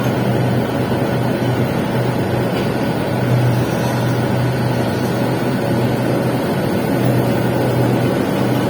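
Welding arc crackling steadily over a low, even hum, with no breaks, as a capping pass is laid on a pipe joint.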